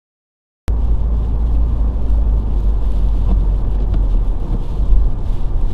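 Silence, then, under a second in, a car cabin's driving noise cuts in suddenly: a steady, loud low rumble of road and engine.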